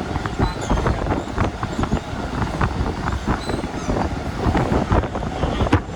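Mumbai suburban electric local train running, a continuous rumble broken by frequent irregular rattles and knocks.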